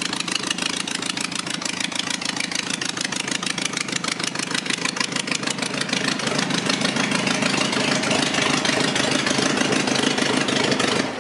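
Newly built VW 1835 cc air-cooled flat-four with dual 40 carburettors running steadily on an engine test stand. It grows a little louder about six seconds in and cuts out abruptly at the very end as the ignition is switched off.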